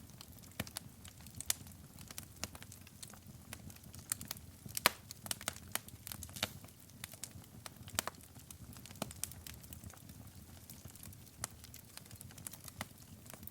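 Wood fire in a fireplace crackling: irregular sharp pops and snaps over a low soft rumble of burning, with the loudest pop about five seconds in.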